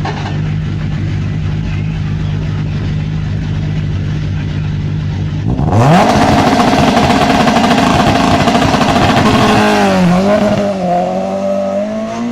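Rally car engine idling steadily at the stage start, then revving up sharply a little before halfway as the car launches. It runs at high revs with short dips in pitch near the end as it changes gear and pulls away.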